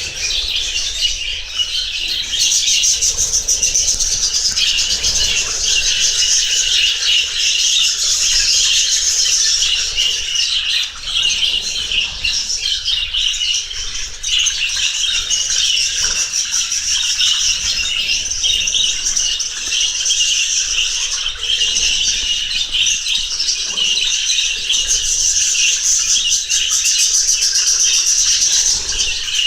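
Many lovebirds calling at once: a dense, continuous high-pitched chatter with no pauses.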